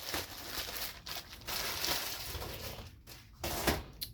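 Packaging of a new automatic transmission filter being opened by hand: irregular crinkling and tearing with small crackles.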